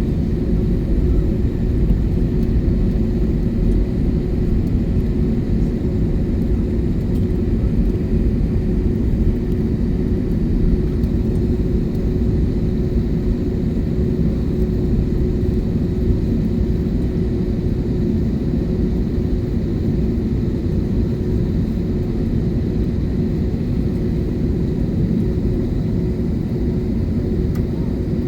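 Steady low rumble with a constant hum inside the cabin of an Airbus A321neo airliner on the ground.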